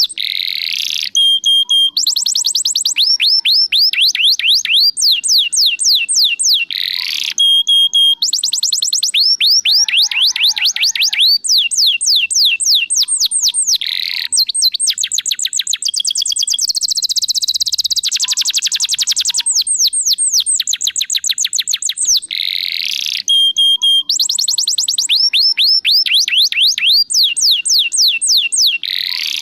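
Domestic canary singing a long, loud song of fast trills of repeated falling notes, mixed with held whistled notes and brief pauses between phrases.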